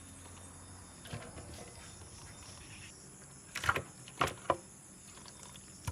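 A few sharp knocks over a low steady background: a pair about halfway through, then two more in quick succession, and one more at the very end.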